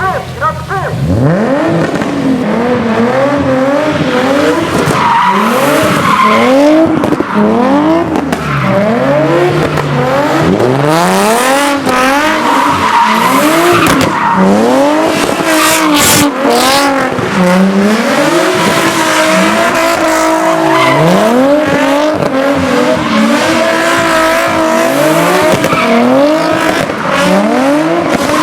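A car engine revving up and falling back over and over, about once every second or so, with tyres squealing and skidding: a car drifting. Loud throughout.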